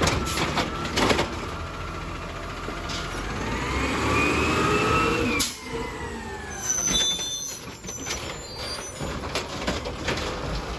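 Garbage truck running, its hydraulics whining and rising in pitch for a couple of seconds. The whine cuts off with a sharp bang about halfway through, followed by short high squeals and a few knocks over the engine rumble.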